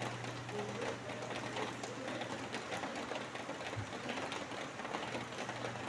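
Rain falling steadily, a dense patter of drops, with a low hum underneath that fades midway and comes back near the end.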